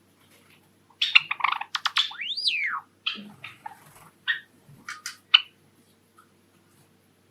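Java sparrow singing: a quick string of sharp clicks and short chirps, with one whistled note that rises and falls, starting about a second in and tailing off into scattered chirps and clicks after about five seconds.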